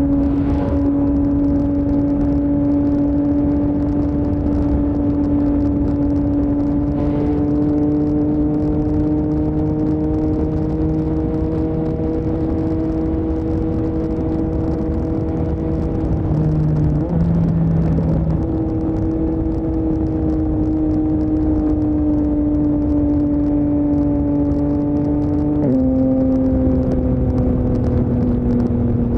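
Yamaha MT-09's CP3 inline-three engine through an Akrapovic full-system exhaust, ridden at steady revs that climb slowly. The revs waver briefly midway, and the pitch drops suddenly near the end. Wind rush runs underneath.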